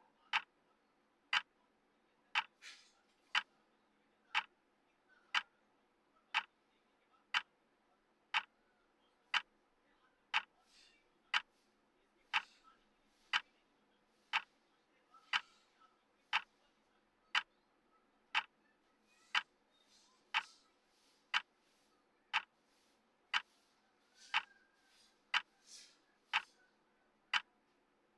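Clock ticking steadily, one sharp tick each second, as a countdown timer's tick sound effect.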